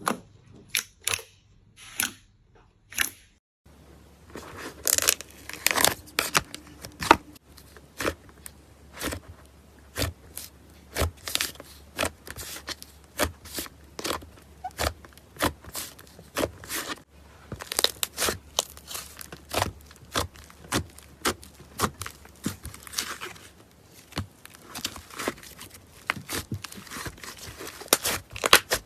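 Slime being squeezed and worked by hand, giving crunchy crackles and pops. There are a few separate pops at first, then after about three and a half seconds a dense run of crackling, several pops a second.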